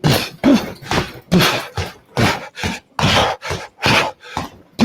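Rapid hook punches landing on a punching bag, a steady run of sharp whacks about two to three a second.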